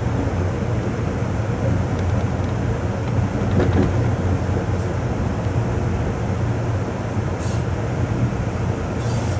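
Amtrak Coast Starlight passenger train running along the track, heard from its rear car: a steady low rumble of wheels on rail, with a few faint clicks about four seconds in.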